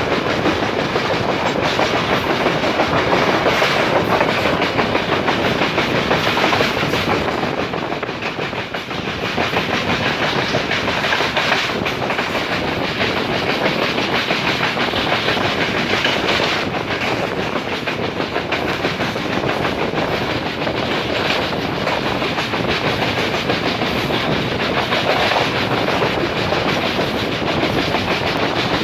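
Express train running at speed, heard from on board: a steady rumble with the clickety-clack of wheels over the rail joints, easing briefly about eight seconds in.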